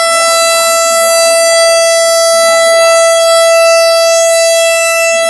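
A train's air horn sounding one long, steady, unwavering note.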